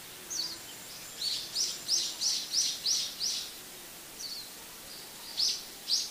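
A bird chirping: a quick run of about seven high, falling notes, roughly three a second, then a few single chirps near the end, over a steady background hiss.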